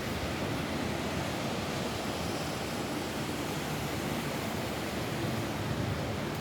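Steady rain falling on a roof, an even, unbroken hiss of water.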